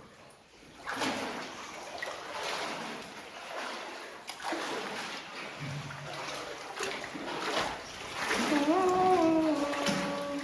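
Water splashing and sloshing as people wade through a flooded mine passage, in irregular strokes. Near the end someone starts humming a tune in long held notes.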